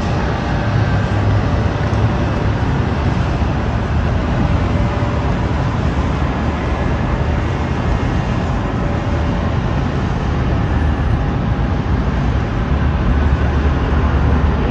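Steady jet engine noise from an airliner at the airport, a continuous rumble with a faint whine over it.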